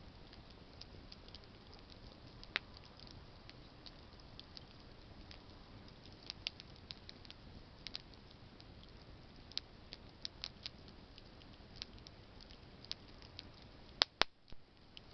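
Campfire of burning branches crackling: scattered small pops over a soft steady hiss, with two loud sharp pops shortly before the end.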